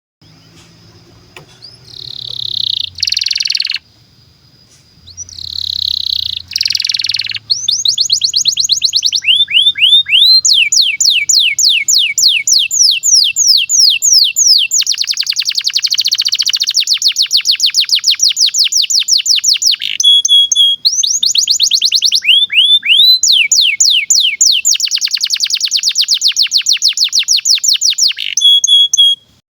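Domestic canary singing a long song of rapid trills: fast runs of repeated rising notes, with a few short harsher phrases before the trills take over.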